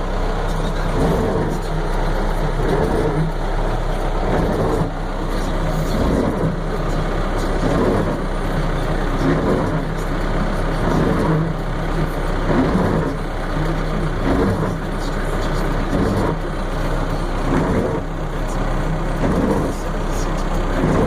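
Diesel engine of a semi-truck running steadily as the rig manoeuvres.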